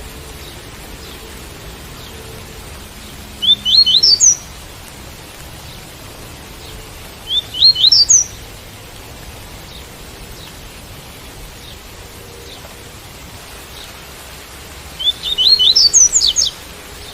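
Double-collared seedeater (coleiro) singing the tui-tui song type: three short phrases of quick, high upward-sweeping notes, the last one longer. The phrases sit over a steady hiss of rain.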